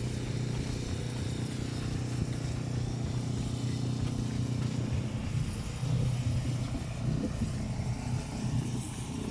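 An engine running steadily, a low even hum that wavers slightly in the second half.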